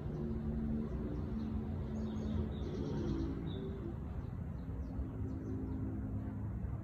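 Faint songbird chirps with a short rapid song phrase about two to three seconds in, over a louder steady low hum.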